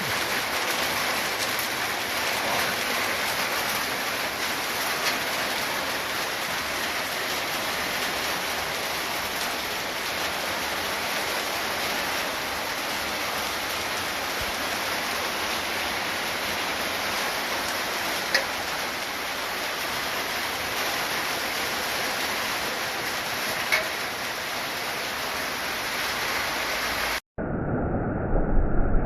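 Heavy monsoon rain pouring steadily, with a few sharp taps. It cuts off abruptly about two seconds before the end into a different, muffled noise.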